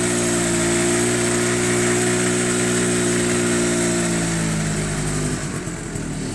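Vehicle engine running steadily, then dropping in pitch about four seconds in as it slows, and settling into a rougher, lower rumble near the end.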